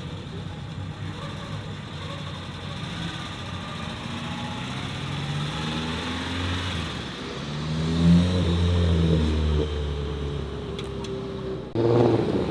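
A modified car's engine accelerating past, its pitch climbing over a few seconds to a loud peak about two-thirds of the way in, then easing off. Near the end another engine comes in suddenly and loudly.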